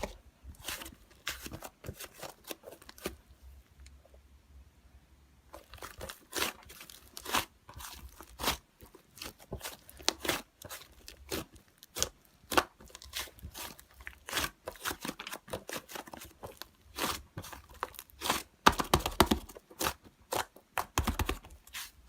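Hands squishing and kneading toy slime, making irregular sharp pops and crackles, with a short lull about four seconds in and a denser run of pops near the end.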